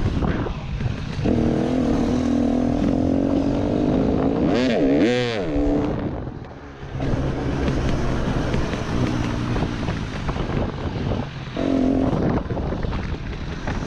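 Motocross bike engine running hard on a dirt track, with wind rushing over the microphone. The revs hold steady, swing sharply up and down about five seconds in, drop off briefly, then pick up again.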